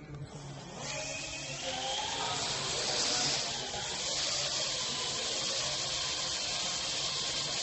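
Parrot AR.Drone's rotors spinning up about a second in, a whirring hiss and whine that rises in pitch, then runs steadily.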